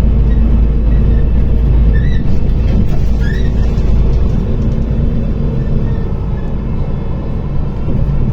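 Inside a MAZ-105 articulated diesel city bus on the move: low engine and road rumble with a steady hum, the low rumble easing about four seconds in.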